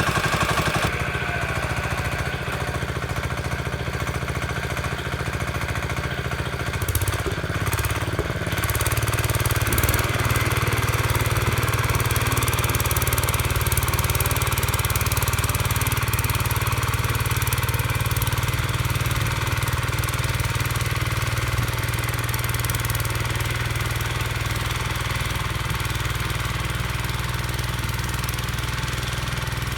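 Small Howard Gem tractor engine running steadily, its note shifting about a second in and again around eight seconds in.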